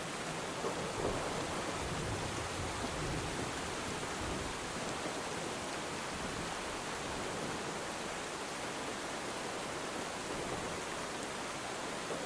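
Steady rainfall hissing evenly, with a low rumble swelling and fading over the first few seconds.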